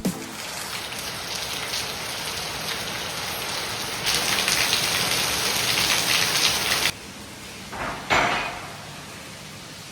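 Heavy rain falling, harder for a few seconds in the middle, then dropping to a lighter hiss about seven seconds in, with a brief swell about a second later.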